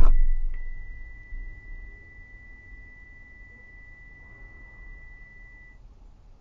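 A loud bang right at the start that dies away over about a second, then a steady high-pitched beep held for almost six seconds before it cuts off.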